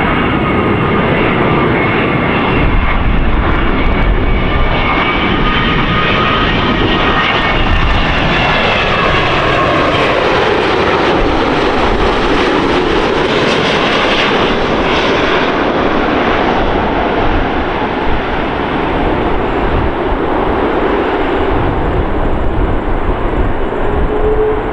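Boeing 787-9 airliner's jet engines passing on its landing approach: a steady loud noise with a high multi-tone whine that slides slowly down in pitch during the first third, the noise swelling to its loudest around the middle as the aircraft goes by.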